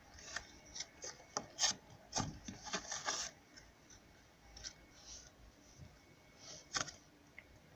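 Soft purple slime squeezed and stretched by hand, giving a quick run of small sharp clicks and pops for about three seconds, then a few scattered ones.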